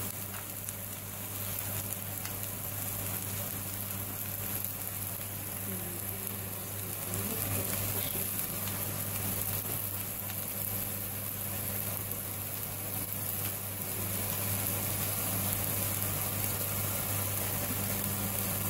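Chopped onion, green chili and capsicum sizzling steadily in oil in a frying pan, over a steady low hum.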